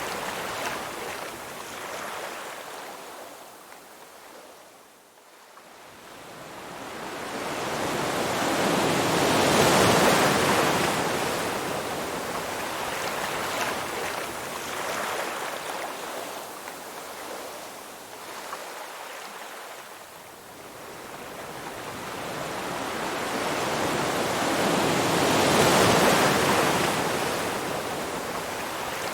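Ocean surf: slow waves washing in, the rushing noise swelling to a loud peak about ten seconds in and again near the end, and fading away in between.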